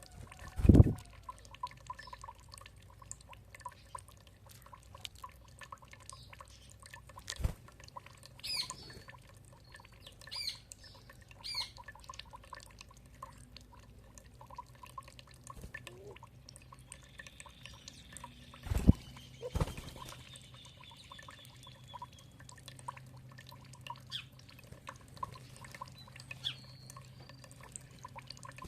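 Water dripping and trickling with birds calling: a few short chirps, then a long trill, with several sudden low thumps, the loudest about a second in and two close together near the middle.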